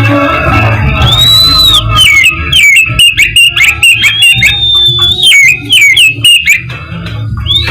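Oriental magpie-robin (the black-chested East Javan kacer) singing loudly: a clear arched whistle, then quick runs of falling notes, a long held high whistle in the middle and more quick notes near the end.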